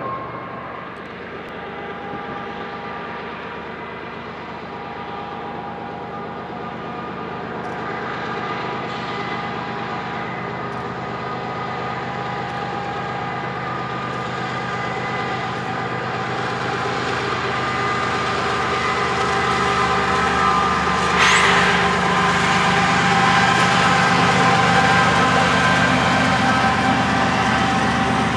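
Union Pacific diesel locomotives and a double-stack intermodal train approaching and rolling past. Engine tones and rail noise grow steadily louder, and there is a brief high squeal about three quarters of the way through.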